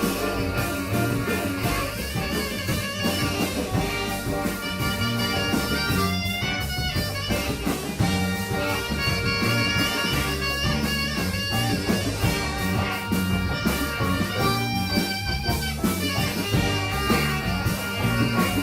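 Band playing rock music: guitar lines over bass and a steady drum kit beat.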